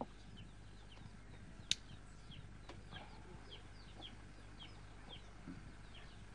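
Birds peeping faintly: short, high, falling chirps repeating about twice a second. A single sharp click comes nearly two seconds in.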